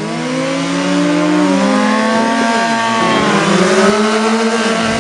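Motorcycle engines revving and accelerating during a race, more than one engine note rising and falling in pitch.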